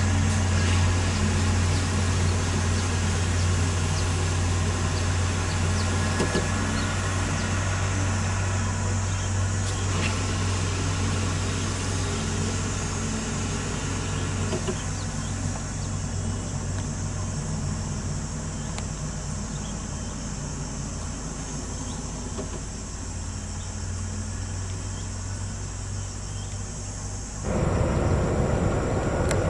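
Heavy truck diesel engine running with a steady low drone that slowly fades as it draws away. About two seconds before the end it cuts abruptly to a louder, rougher vehicle noise.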